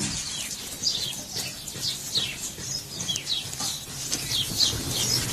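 Small birds chirping: a string of short, high chirps, each falling in pitch, several a second.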